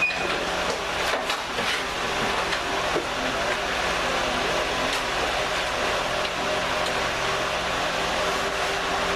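Steady mechanical hum and hiss, with a few short knocks and clanks in the first two seconds.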